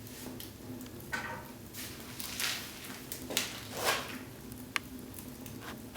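Firewood burning in the open firebox of a fireplace-stove during its first firing, giving irregular sharp pops and crackles over a steady low hum.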